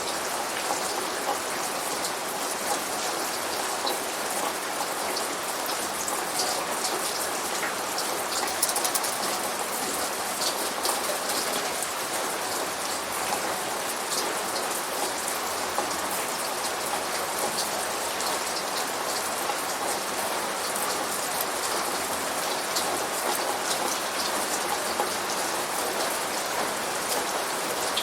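Steady rain falling, with many small drops ticking sharply on a surface over an even hiss. No thunder.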